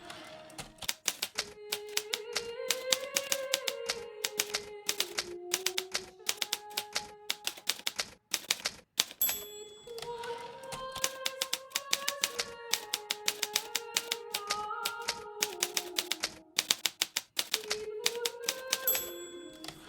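Hermes Baby portable typewriter being typed on at a brisk, steady pace, a rapid run of sharp keystroke clicks that stops briefly twice. A soft, slow melody plays underneath.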